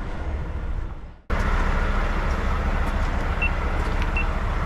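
Heavy truck's diesel engine running steadily, cut off sharply about a second in and then resuming. A few faint short beeps sound near the end.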